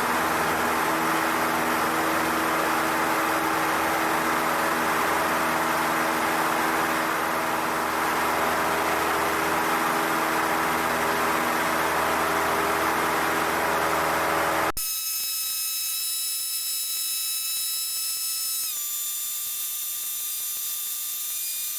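Cessna 152 four-cylinder engine and propeller running steadily, heard inside the cockpit as a loud, even drone. About fifteen seconds in it cuts off abruptly. What follows is a quieter electronic hiss with several thin, steady high whines that shift pitch slightly a few seconds later.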